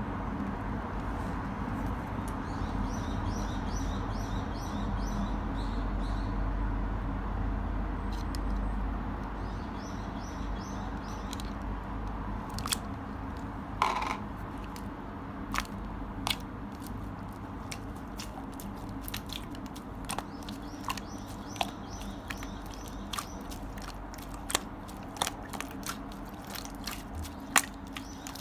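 Clear jelly-textured slime being squeezed and poked by hand, giving sharp little clicks and pops as air pockets burst. The clicks are sparse at first and come thick and fast in the second half, over a steady low hum.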